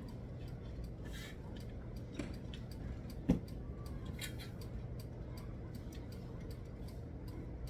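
Scattered light clicks and taps of rod and stand parts being handled and fitted together, with one sharper knock about three seconds in, over a steady low hum.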